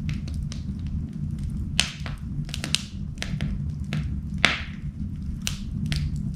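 Wood fire burning in an indoor fireplace, crackling with irregular snaps and a low steady rumble, with two louder pops about two seconds in and again past the middle.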